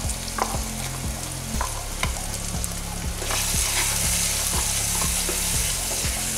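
Ground masala paste sizzling in hot oil in a kadai, with a spatula stirring and scraping it into the fried onions and tomatoes. The sizzle grows louder about halfway through, over a steady low hum.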